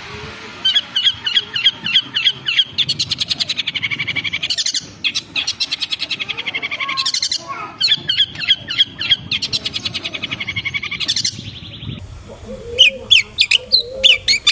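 Long-tailed shrike (cendet) singing a fast, chattering song of rapidly repeated notes, broken by brief pauses. About twelve seconds in, the song changes to separate, sharper rising phrases.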